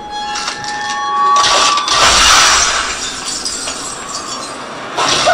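Shattering sound effect from a TV drama's soundtrack, like breaking glass, loudest about two seconds in.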